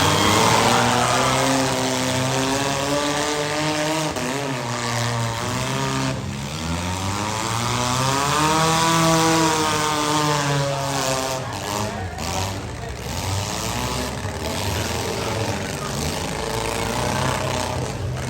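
Compact demolition-derby car engines revving, their pitch swelling up and falling back several times, with the biggest rev about halfway through.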